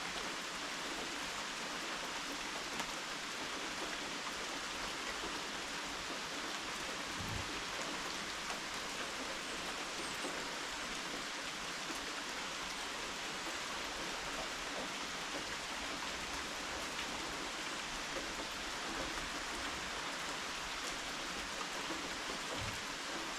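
Steady rain falling, heard from a porch, with a couple of soft low thumps.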